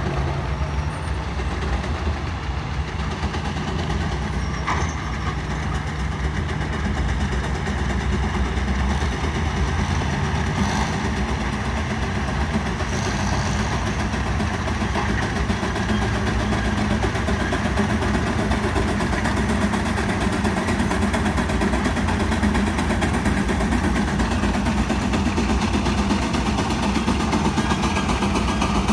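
Tractor engine running steadily under load while pulling a sled, the drone slowly growing louder.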